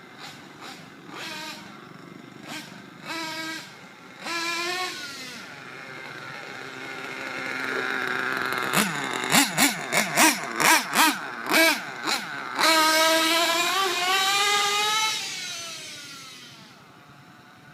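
Trackstar .21 nitro RC engine revving: a few short throttle blips, then a quick run of sharp blips, then a long high-rpm stretch whose pitch falls away near the end.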